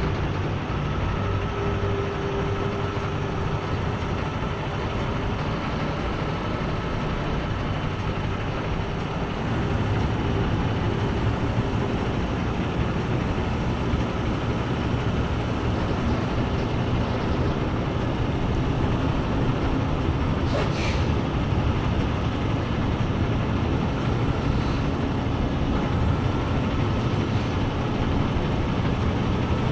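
Tractor-trailer engine and road noise heard from inside the cab while driving, steady throughout, getting a little louder about ten seconds in. One sharp knock about twenty seconds in.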